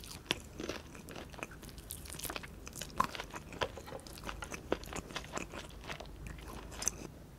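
Close-miked chewing of honey-roasted chicken: irregular crisp crunches and wet mouth clicks, with lip smacking.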